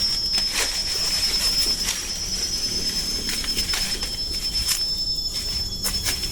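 Steady high-pitched insect drone, cicada-like, with scattered sharp clicks and taps over it.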